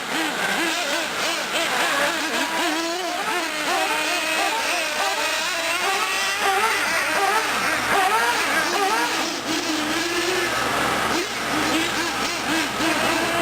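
Several small nitro R/C engines screaming and revving up and down at once, their pitches weaving over one another as the trucks and buggies run laps, speeding up and slowing through the turns and jumps.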